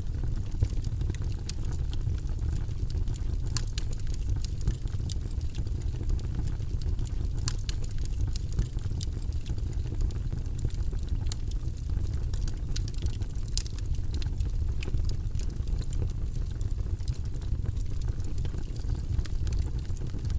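Wood fire burning in a fireplace: a steady low rumble with frequent small crackles and pops throughout.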